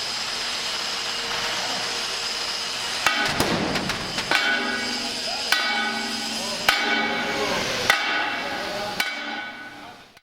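A steady rushing hiss, then about three seconds in, six hammer blows on steel, roughly one every second, each ringing on after the strike. The blows come from work fitting a new steel tire onto a steam locomotive's driving wheel.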